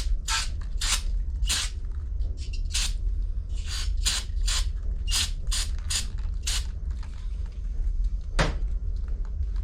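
Aerosol brake cleaner sprayed in a string of short bursts, about one or two a second, onto small-engine carburetor parts to clean them. A single knock follows near the end.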